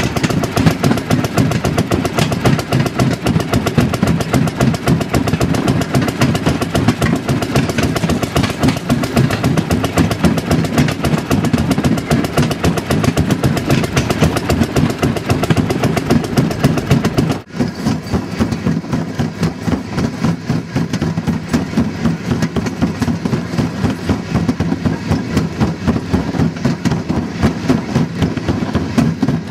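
Small engine of a railroad speeder (track motor car) running steadily, with a fast, even firing beat. It dips briefly a little over halfway through, then runs on slightly softer.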